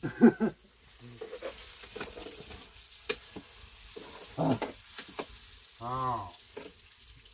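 Food frying in a pan with a steady sizzle, a few sharp clicks, and brief voice sounds about four and a half and six seconds in.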